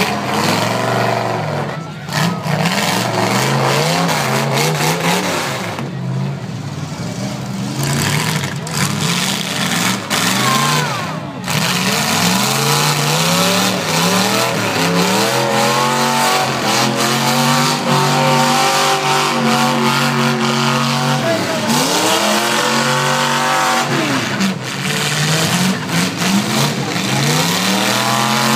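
Eight-cylinder demolition derby cars running in the arena, their engines revving up and falling back again and again, several of them overlapping.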